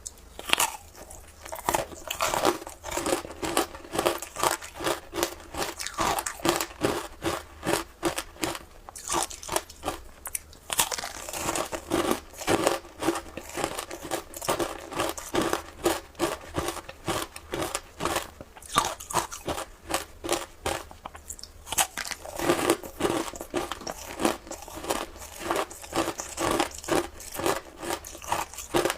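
Ice crunched and chewed close to the microphone: sharp, crackling bites repeating about two to three times a second.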